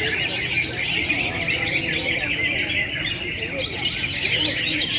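Many caged songbirds chirping and trilling at once in a dense, continuous chorus.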